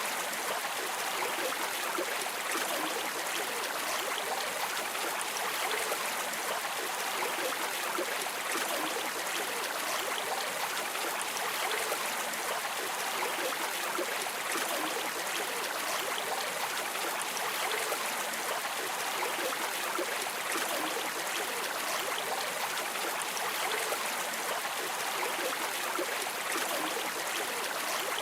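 Flowing stream water, a steady even rushing and trickling.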